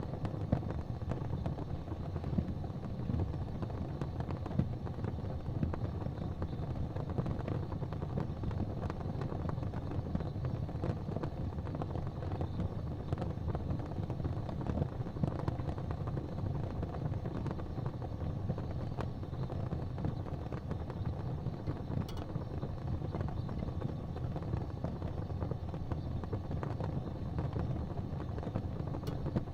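Wood fire in a fireplace crackling over a steady low rumble, with small pops scattered throughout.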